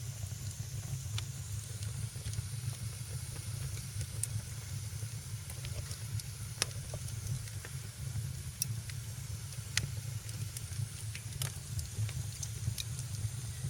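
Wood fire in a fireplace crackling: irregular sharp pops, roughly one a second, over a steady low rumble of flame and a soft hiss.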